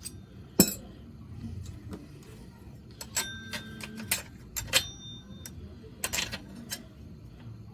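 Small metal parts being handled: scattered clicks and light knocks, one sharper click about half a second in, and two brief metallic rings about three and five seconds in.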